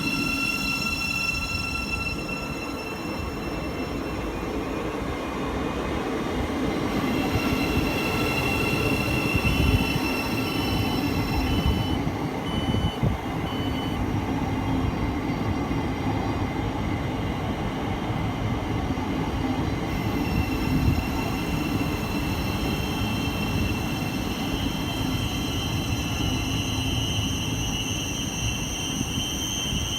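A train running through a railway station: a continuous rumble of wheels on track with high, steady whining tones that fade and return.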